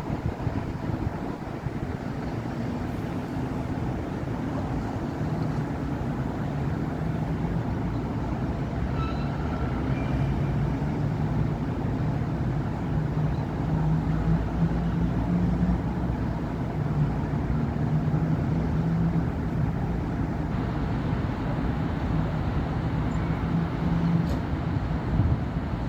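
Steady city road traffic: a continuous rumble of car and heavier vehicle engines and tyres, swelling in the second half. There is a brief high tone about nine seconds in and a single sharp click near the end.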